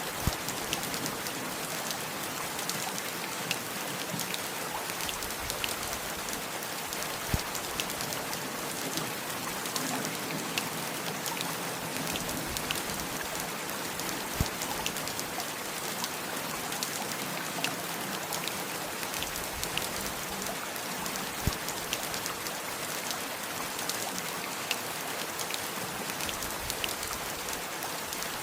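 Steady heavy rain falling on surfaces, a dense even hiss full of small drop ticks, with a few louder single drops striking close by now and then.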